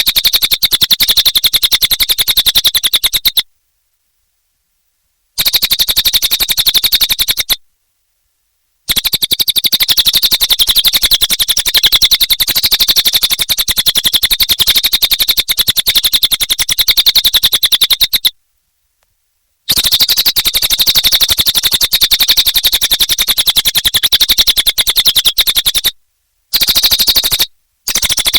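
Cililin bird singing vigorously: a continuous stream of very rapid, high-pitched chattering notes. It cuts off abruptly into complete silence several times and resumes each time.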